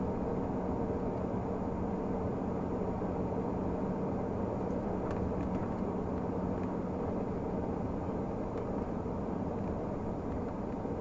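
Renault Magnum 480 truck's 13-litre straight-six diesel running steadily under way, with a constant dense low rumble. A steady low hum in the sound fades out about a third of the way in.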